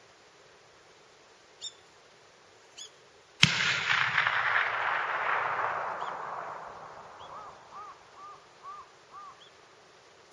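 A single hunting-rifle shot about three and a half seconds in, its report echoing and dying away over about three seconds. A bird calls several times in short, repeated notes as the echo fades.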